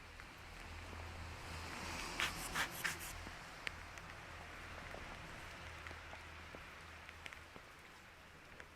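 Rain falling on a wet street, a steady hiss that swells for a couple of seconds near the start, with three sharp ticks about two to three seconds in.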